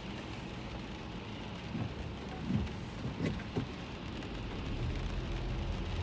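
Rain falling on a car's roof and windshield, heard from inside the cabin, with a few short low thumps around the middle. In the second half a low rumble of engine and tyres grows louder.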